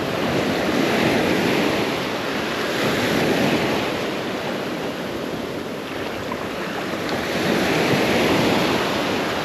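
Gulf of Mexico surf washing onto the beach, swelling and easing in several slow waves, with wind on the microphone.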